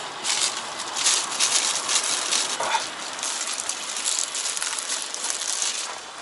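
Udon noodles being slurped up in a long run of wet, fluttering sucking noise.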